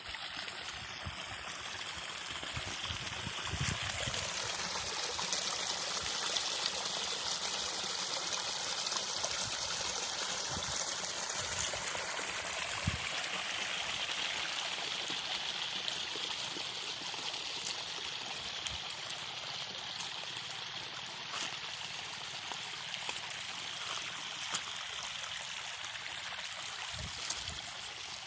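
Falling water running and splashing steadily, an even rushing hiss that does not let up, with now and then a brief low knock.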